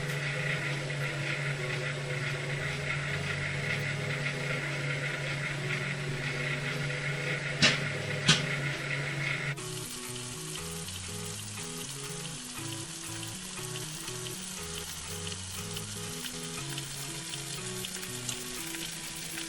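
Microwave oven running with a steady hum while raw sea bream inside it sizzles and hisses, with two sharp pops about eight seconds in. About halfway through, the hum stops and background music plays over the continuing sizzling hiss.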